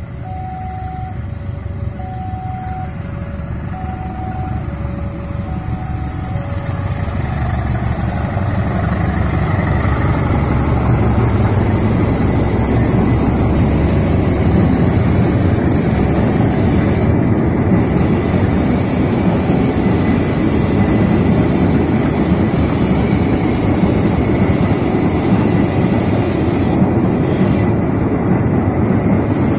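A level crossing warning alarm chimes two alternating notes over the low running of an approaching diesel locomotive, and stops about seven seconds in. The sound then swells into the steady rolling of a long train of empty fuel tank wagons passing close by, wheels running on the rails.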